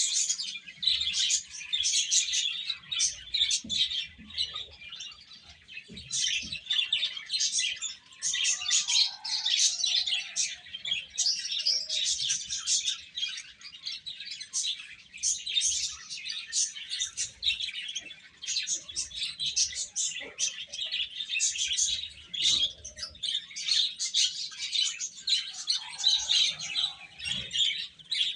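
A group of baby chicks peeping continuously, many rapid high-pitched chirps overlapping, with a few lower, softer calls now and then.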